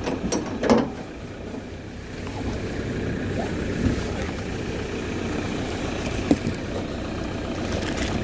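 Car cabin noise: steady low engine and road rumble, with two sharp clicks in the first second and a few light ticks later.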